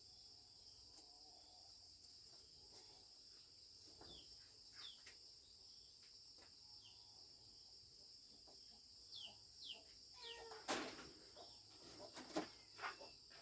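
Faint, steady high-pitched insect chorus, with a few short falling bird chirps. Several knocks sound in the last few seconds.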